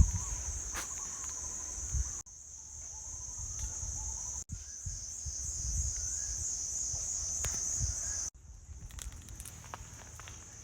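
Insect chorus: a steady, high-pitched shrill drone, broken by three abrupt cuts and resuming after each.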